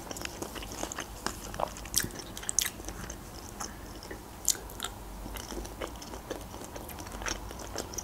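A person chewing fried pelmeni, close-miked, with many small irregular mouth clicks and wet chewing noises.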